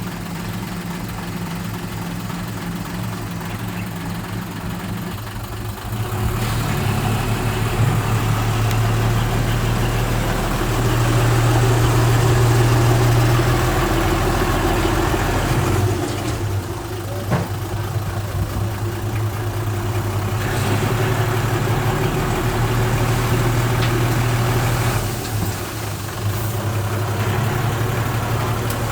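Heavy-equipment diesel engine running steadily with a low drone. It works harder about six seconds in, eases off briefly twice and picks up again.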